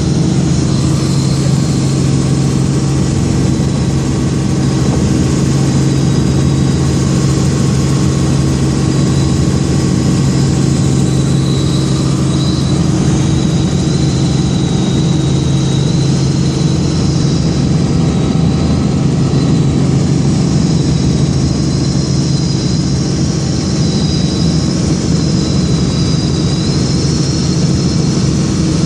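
Helicopter running steadily in flight: a loud, even low drone with a high whine above it.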